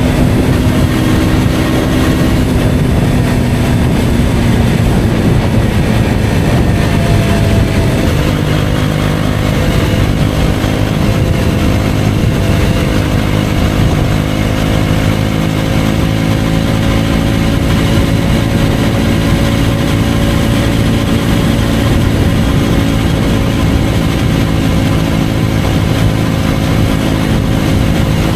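KTM Duke 125's single-cylinder four-stroke engine running under way through an Akrapovic exhaust. The engine note falls over the first few seconds, changes about eight seconds in, then holds steady and climbs slowly as the bike cruises.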